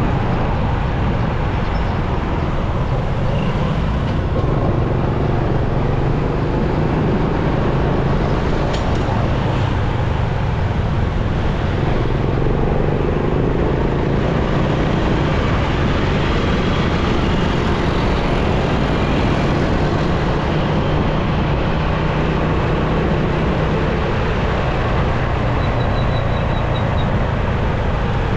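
Steady engine and road noise from a motorcycle riding through busy city traffic, with a low engine hum under it.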